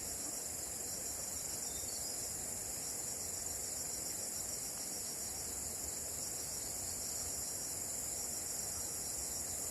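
Steady high-pitched insect chorus with a fast pulsing trill, over a low rumble.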